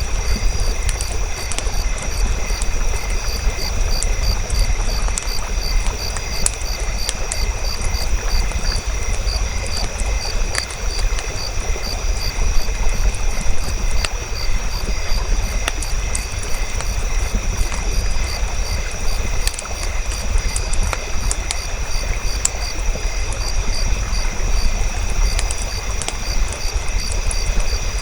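Campfire crackling with scattered sharp pops over a low rumble, while insects chirp steadily in high, rapid pulses.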